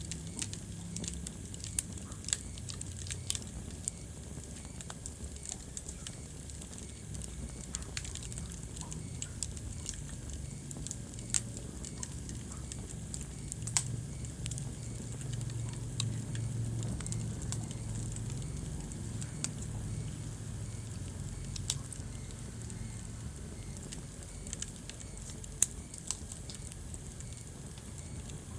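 Wood fire burning in a fireplace: a steady low rumble of flames with irregular crackles and sharp pops from the burning wood, the loudest pop near the end.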